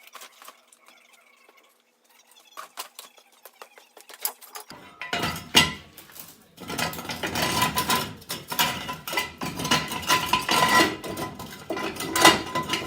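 Scattered metal clicks and taps, then from about five seconds in a dense, louder run of metal scraping and clinking with a ringing note: hand tools working on a Volkswagen T4's front disc brake parts.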